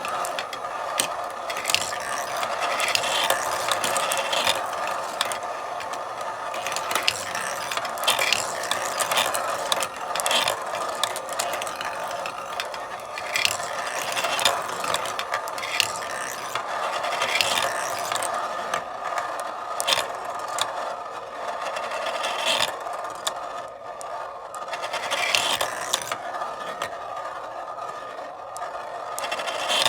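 Marble run in motion: marbles rolling along the tracks in a steady rolling sound, with many irregular sharp clicks and clacks as marbles strike the track and each other.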